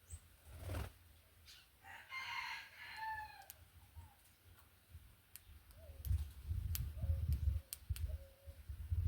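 A rooster crows once, about two seconds in: a single call of a bit over a second that drops in pitch at the end.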